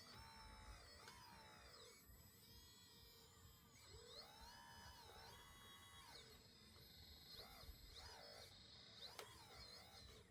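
Faint whine of a radio-controlled scale model's small electric motors, rising and falling in pitch in short runs of about a second, several times over.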